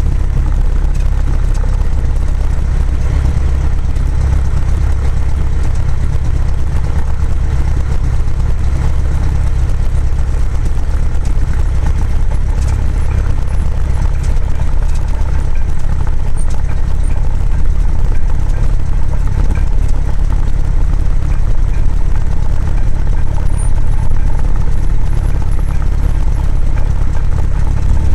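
Cessna 172's piston engine and propeller running steadily: a loud, even, low-pitched drone that does not change.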